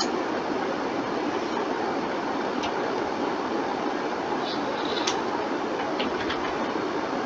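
Steady rushing background noise with a few scattered sharp clicks, typical of mouse and keyboard clicks during computer work.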